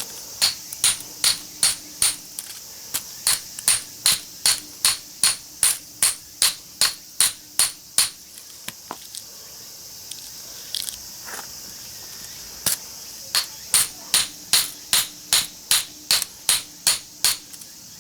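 Hammer striking metal in quick, even blows, about three a second, in two long runs with a pause of several seconds between. The blows are trying to drive the copper winding out of a small transformer's steel core.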